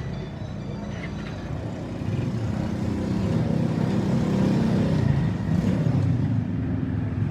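A motor vehicle's engine running close by, growing louder over the first few seconds and easing off near the end.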